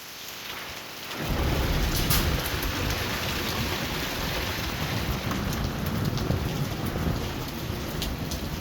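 Heavy thunderstorm downpour that starts suddenly about a second in, a dense steady rush of rain with a low rumble underneath and scattered sharp ticks of drops striking nearby surfaces.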